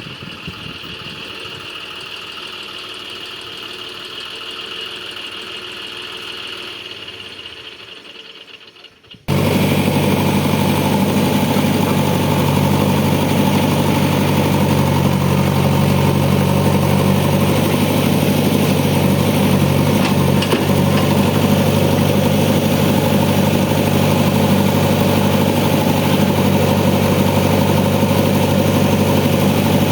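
Diesel engine of a tractor or backhoe loader running steadily at constant speed. It is quiet for the first nine seconds or so, with a faint high whine, then turns suddenly much louder and stays steady.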